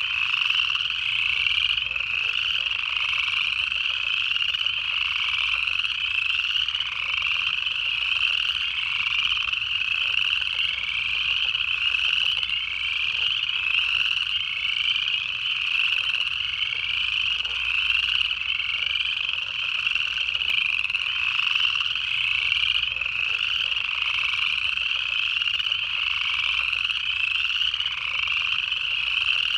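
Chorus of upland chorus frogs: dense overlapping rising trills, one after another about every second, with high peeps of spring peepers mixed in.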